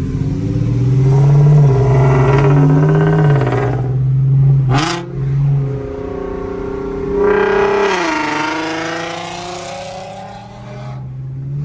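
Infiniti G37's 3.7-litre V6 with the muffler deleted, pulling hard under acceleration. There is a short sharp crack about five seconds in, then the revs climb again and fall away as the throttle comes off.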